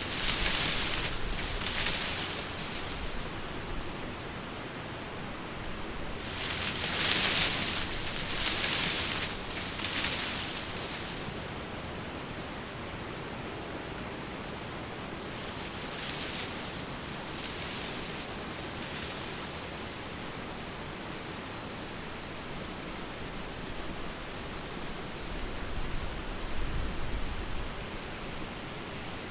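Daytime forest and lakeside ambience: a steady high insect chorus over a constant hiss, with swells of rushing noise a second or two long near the start and between about six and ten seconds in. A low rumble rises near the end.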